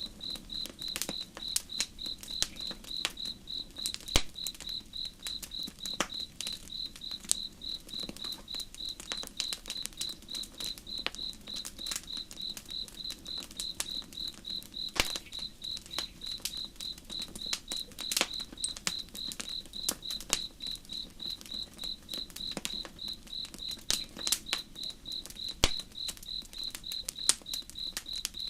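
Crickets chirping steadily in an even, high-pitched pulse of about three chirps a second, over the irregular sharp pops and crackles of a burning campfire, with a low steady rush beneath.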